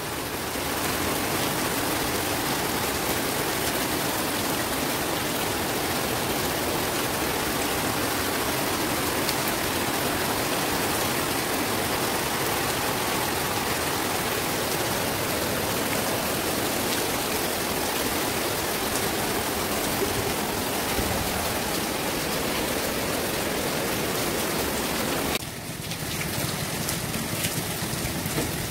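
Heavy rain pouring steadily onto wet concrete and standing water, an even hiss of many drops splashing. It drops a little in level near the end.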